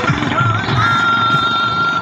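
Heavy truck's engine running, with a melodic tone over it: a short wavering note, then one long held high note from about a second in.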